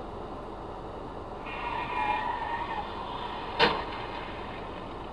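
Steady road noise from inside a moving car. A brief high-pitched tone sounds for about a second, and shortly after comes a single sharp knock.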